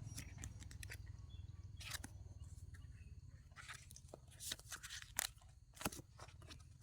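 Scattered rustles and small clicks of a wallet and its contents being handled and looked through, over a faint low hum.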